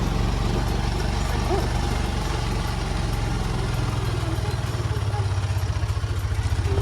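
A motor vehicle's engine running steadily with a low hum, taking on a regular pulsing in the last couple of seconds.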